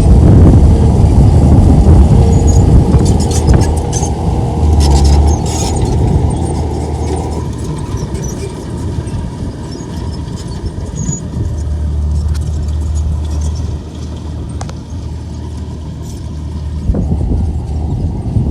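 Komatsu bulldozer's diesel engine running under load with a steady low drone, louder in the first few seconds and easing off after about seven seconds. Scattered metallic clicks and squeaks, likely from the tracks, come through around four to six seconds in.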